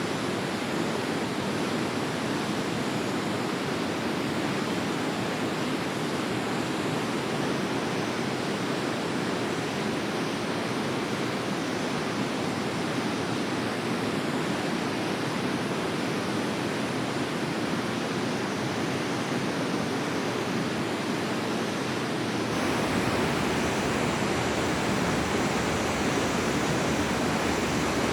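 Forest stream rushing steadily, an even wash of flowing water with no birdsong standing out. About three-quarters of the way through it abruptly becomes a little louder and fuller.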